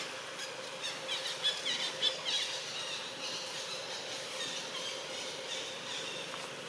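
Baby monkey squealing: a quick run of short, high-pitched squeaks about a second in, then fainter squeaks that die away. A steady faint hum runs underneath.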